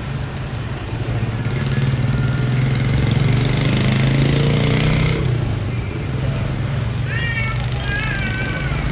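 A heavy truck's diesel engine passing close on the road, its hum and tyre noise swelling for a few seconds and then easing back into steady traffic noise.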